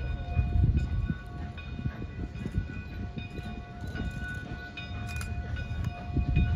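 A train rolling past: a low rumble of wheels on rail, with scattered clicks and several steady high ringing tones that come and go.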